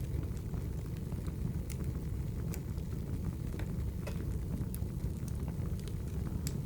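Wood fire burning in a fireplace: a steady low rumble of the flames with scattered sharp crackles and pops, a few a second.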